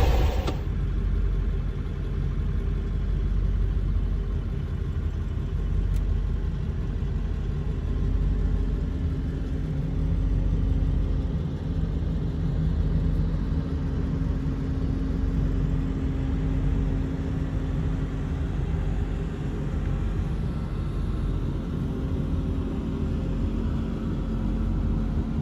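A motor vehicle driving: a steady low engine and road rumble, with a faint steady hum that comes in about eight seconds in.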